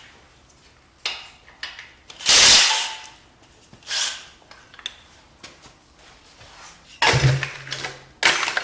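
Tools and metal engine parts clanking and knocking during an engine teardown: a string of separate knocks, with the longest, loudest noisy bursts at about two and a half seconds in and again near the end.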